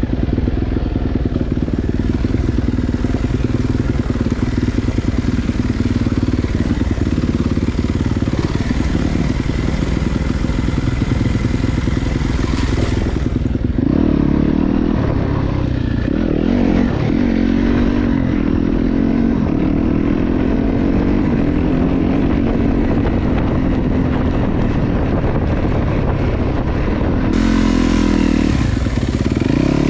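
Dirt bike being ridden along a trail, heard from the rider's helmet camera, with a steady low rumble throughout. From about halfway through, the bike's note wavers up and down with the throttle.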